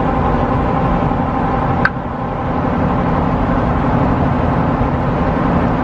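Steady road and engine noise inside a moving car's cabin, with a single sharp click about two seconds in.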